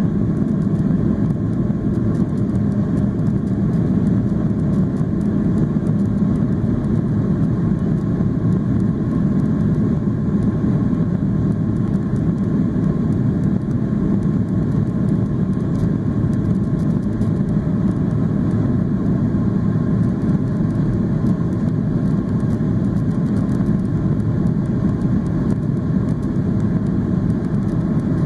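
Steady, even noise inside the cabin of a Boeing 737-800: the engines and the rush of air, with no change in pitch or level.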